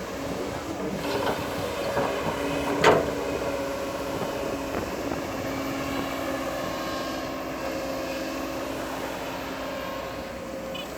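Bulldozer engine running steadily with a whining tone, and its tracks squealing and clanking, with one sharp clank about three seconds in.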